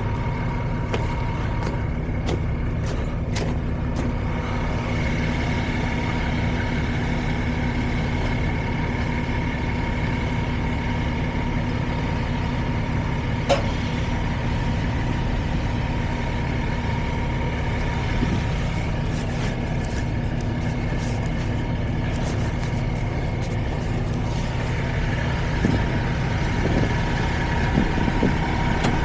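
Semi truck's diesel engine idling steadily, with a steady high whine over the low hum and a single sharp click about halfway through.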